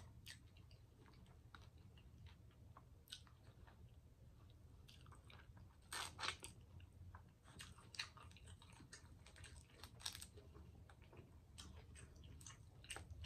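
Faint close-miked chewing and mouth sounds of a person eating, with scattered soft clicks and smacks, the loudest about six, eight and ten seconds in, over a low steady hum.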